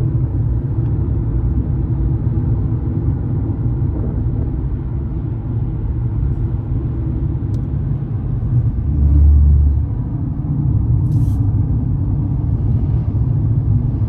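Steady low road and engine rumble heard from inside a moving car's cabin, swelling louder for about a second partway through.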